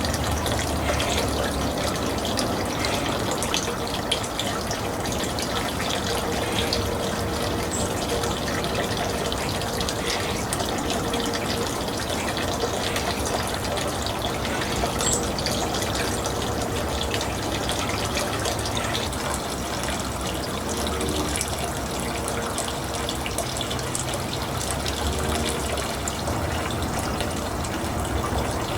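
Steady rushing of running water, with no break.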